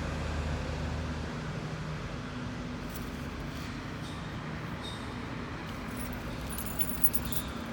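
Diesel engine of a garbage truck pulling out past the microphone. Its low drone is strongest for the first second or two, then settles into a steadier rumble of trucks running. A short click comes near the end.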